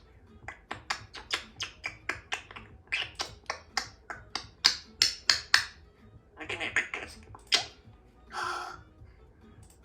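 Congo African grey parrot making a rapid series of sharp clicking sounds, about four a second, then one short harsh call near the end.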